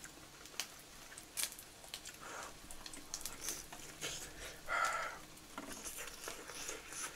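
Close-miked eating of soft, butter-soaked French toast: quiet chewing with small wet mouth clicks, and one brief louder mouth sound about five seconds in.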